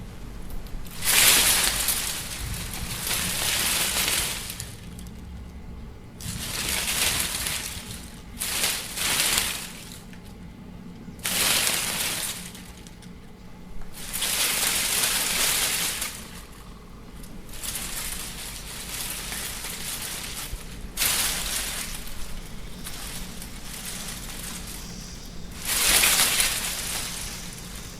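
Wind blowing in gusts, a hissing surge of one to two seconds about every two to three seconds, over a steady low rumble.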